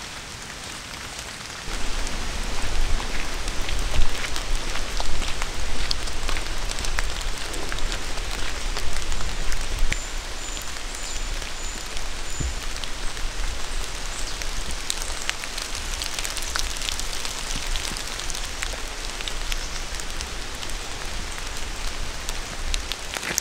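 Steady rain falling, with many scattered sharp drop ticks close by. A low rumble runs underneath from about two seconds in until about ten seconds in.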